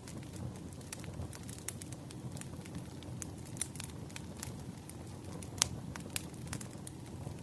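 Burning firewood crackling: frequent irregular sharp pops and snaps over a low steady rumble, with one louder pop about three quarters of the way through.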